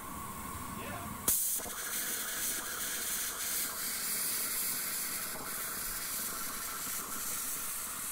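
Steam hissing from a small live-steam locomotive under steam. The hiss comes on abruptly about a second in and holds steady and loud.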